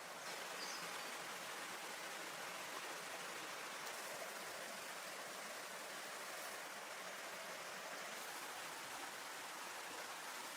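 Steady, even hiss of water, with no distinct events.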